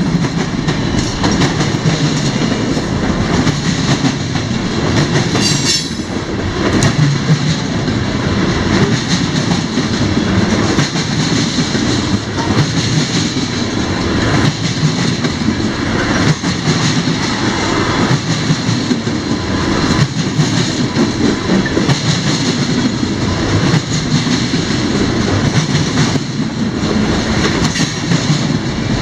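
Freight cars of a CSX train rolling past, a steady loud rumble with the wheels clicking over rail joints throughout.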